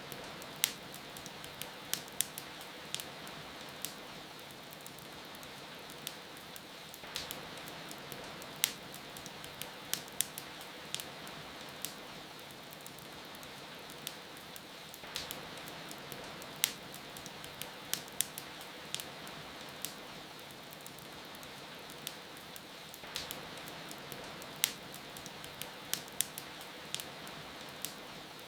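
Steady rain hiss with a wood fire crackling over it: irregular sharp pops and snaps, sometimes several in quick succession.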